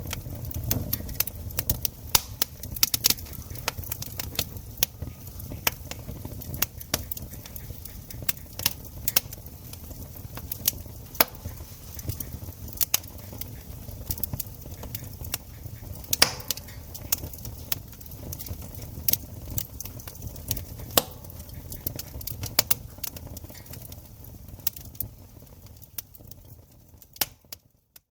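Wood campfire crackling: irregular sharp pops and snaps of burning wood over a low rumble of the flames, fading almost to silence near the end.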